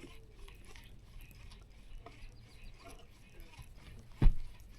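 Fishing reel being cranked: faint, irregular clicking and ticking, with one loud thump about four seconds in.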